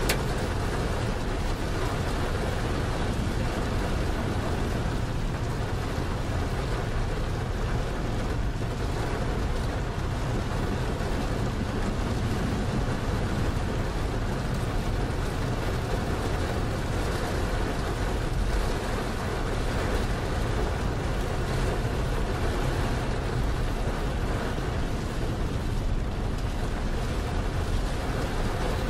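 Rain on a semi truck's windshield and cab over the steady low drone of the truck's engine and tyres on a wet highway, heard from inside the cab.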